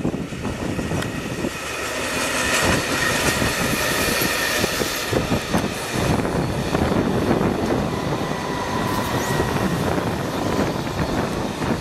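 SPENO rail-grinding train, a long rake of coupled units, running past at reduced speed with a steady rumble of wheels on the rails. A faint high steady whine sits over it.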